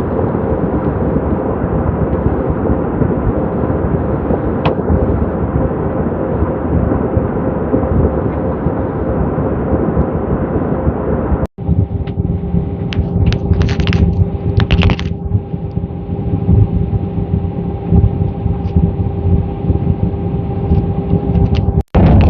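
Airliner in flight: a loud, steady roar with a steady engine hum. It breaks off for an instant about halfway and comes back with a lower hum and a few brief clicks.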